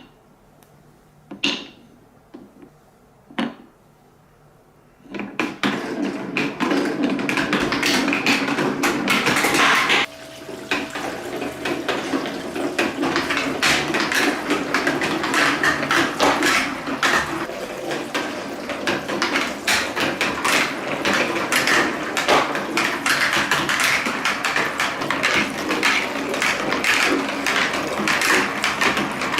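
Marbles clicking along a plastic TrixTrack marble run: a few single clicks in the first seconds, then from about five seconds in a dense, continuous clatter of many balls rattling down the wave-slope track.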